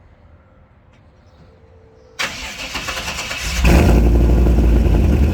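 The 1957 Chevrolet Bel Air's fuel-injected 383 stroker V8, breathing through a Flowmaster exhaust, is cold-started. About two seconds in, the starter cranks it for about a second and a half. The engine then catches and settles into a steady, deep-toned idle.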